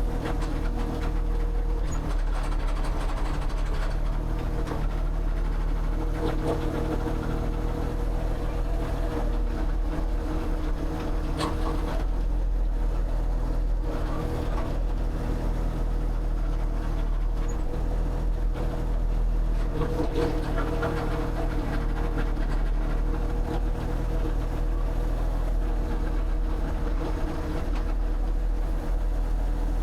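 An engine or motor running steadily with a constant low hum.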